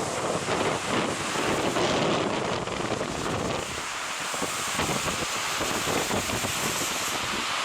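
Strong wind buffeting the microphone over the surf of a stormy sea; the gusty rumble eases a little about halfway through.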